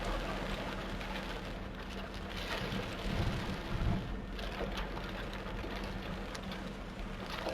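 Torrential rain pouring down in a steady, dense hiss, with a low steady hum underneath and a couple of louder low thumps about three to four seconds in.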